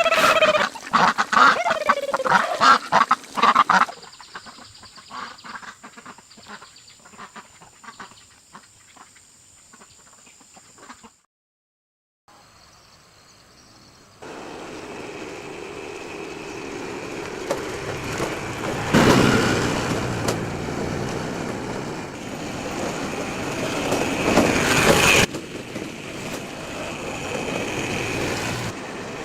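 Poultry calling with gliding, honk-like calls for the first few seconds. Then scattered clicks over a thin high whine, a second of silence, and a steady noise that swells loudly twice, about 19 and 25 seconds in.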